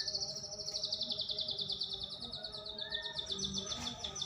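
White-rumped shama giving a long, rapid buzzy trill, about eight notes a second, sinking slightly in pitch: a lure song meant to provoke a captive shama into singing.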